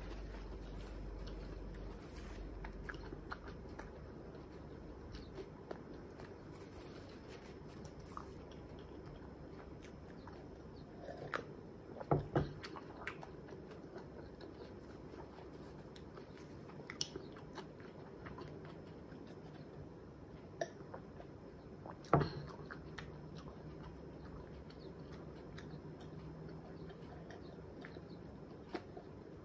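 Close-miked chewing of a mouthful of fried egg: soft wet mouth sounds and small clicks, with a few sharper, louder clicks about twelve seconds in and one again about ten seconds later.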